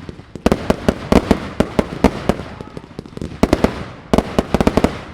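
Fireworks going off in rapid volleys of sharp bangs, several a second, with short lulls between the volleys.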